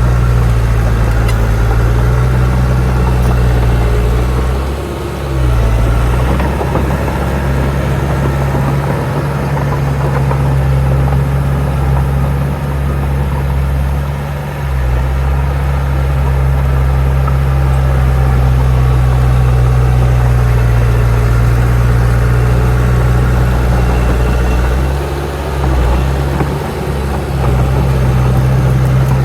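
Heavy diesel engine of earthmoving machinery running steadily at a low, even note. It dips briefly about five seconds in, again near the middle and again near the end, as the load on the machine changes.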